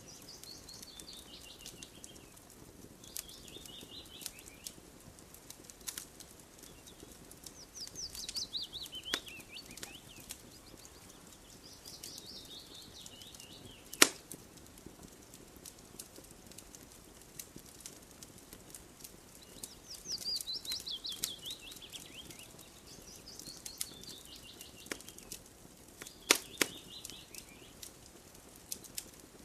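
Campfire crackling with scattered sharp pops, the loudest about halfway through. Over it, a songbird sings the same quick descending run of high notes every few seconds.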